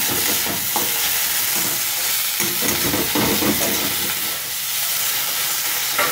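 Chopped tomato, onion and ginger-garlic paste sizzling in hot mustard oil in a kadai, with a steady frying hiss. A flat metal spatula stirs and scrapes the pan in short strokes, about a second in, a few times in the middle and near the end.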